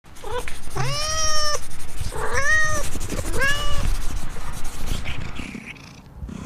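A cat meowing three times, loud drawn-out calls each under a second long, the first the longest.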